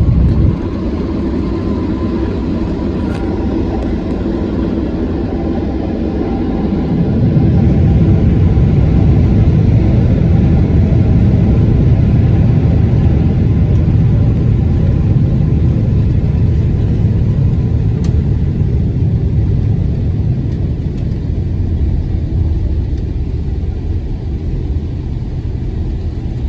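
Steady low rumble of an Airbus A330 airliner heard from inside the cabin, growing louder about seven seconds in.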